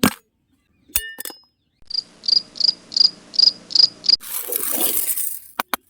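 A run of about seven high, evenly spaced chirps, about three a second, like a cricket. They are followed by a brief whooshing noise and some sharp clicks near the end.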